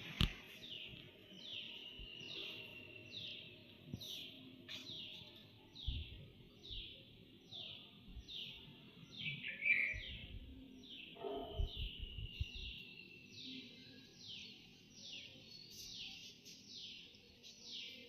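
A bird calling over and over, a short down-slurred note about twice a second, with a few low rumbles partway through.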